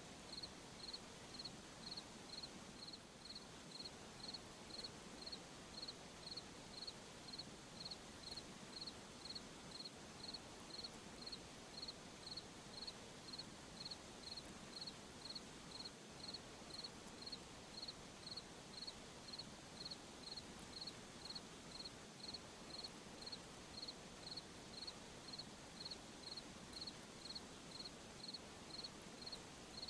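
Cricket chirping at a steady, even pace, roughly three chirps every two seconds, over a faint hiss of night ambience.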